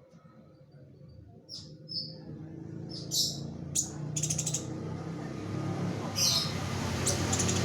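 Kolibri ninja (a sunbird) giving sharp, high chirps and a few short rapid trills, irregularly spaced. Under them a low rumble grows louder toward the end.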